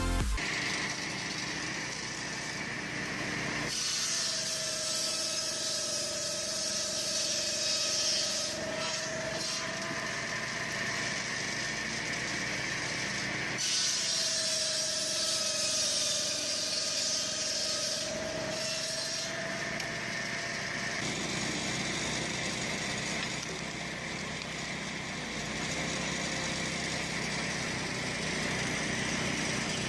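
Power saw cutting through wood twice, each cut about six seconds long, with a steady whine that dips slightly in pitch while the blade is in the wood.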